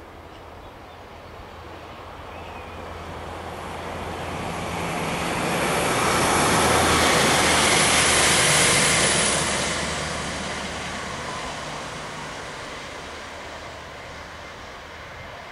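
Diesel multiple-unit passenger train passing: a low engine hum and wheel-on-rail noise grow louder, peak about halfway through, then fade away.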